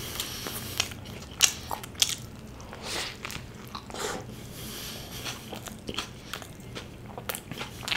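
Close-miked chewing and biting of a burger filled with mutton momos and cheese: irregular wet mouth smacks and clicks, with a few sharper crunches.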